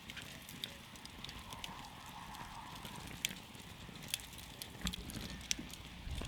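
Campfire burning with a soft steady hiss and scattered sharp crackles and pops of burning wood, a few louder snaps among them.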